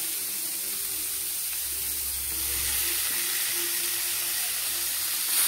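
Freshly added chopped raw chicken sizzling steadily in hot oil in a frying pan.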